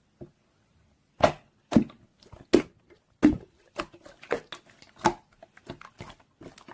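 Slime being pressed and poked by hand, making irregular crisp clicks and pops, about two a second.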